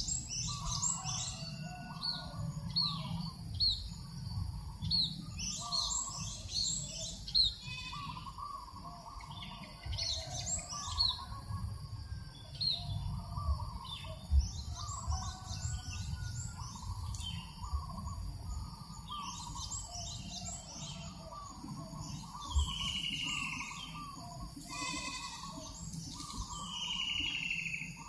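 Several birds calling at once: quick high chirps and a steady lower chattering, with two falling whistled calls near the end, over a low rumble of breeze.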